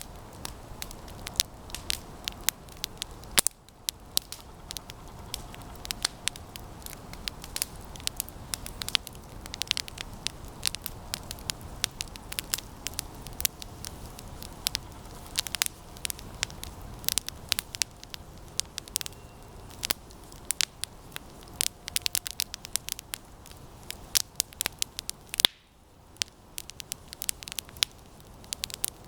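Campfire of resinous pine branches burning, crackling with many irregular sharp pops and snaps over a steady low rush of flame.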